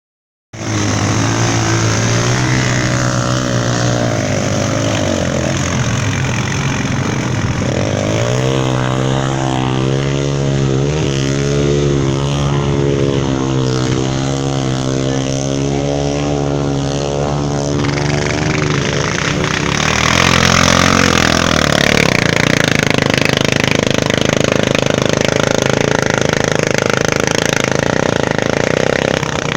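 Yamaha TT-R230 dirt bike's single-cylinder four-stroke engine running under way, its pitch wavering up and down as the throttle is worked. About twenty seconds in it turns louder and rougher.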